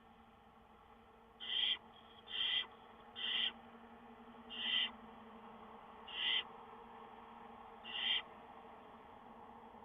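Barn owl giving a series of six short rasping calls, each about a third of a second long, spaced roughly one to one and a half seconds apart.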